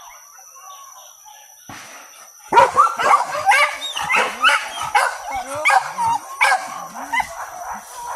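Pack of hunting dogs yelping and barking on a wild boar chase: faint at first, then loud and close from about two and a half seconds in, with many rapid overlapping yelps rising and falling in pitch.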